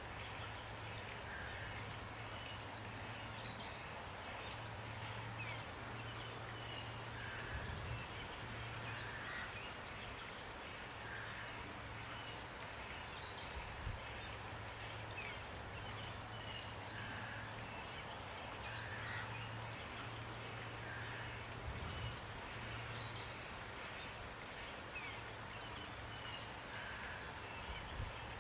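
Small songbirds chirping in quick, high, falling notes that recur in groups every several seconds, over a steady hiss of falling rain. A low hum runs underneath and breaks off now and then.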